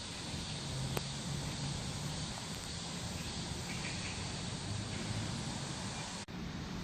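Steady outdoor background noise with a single sharp click about a second in.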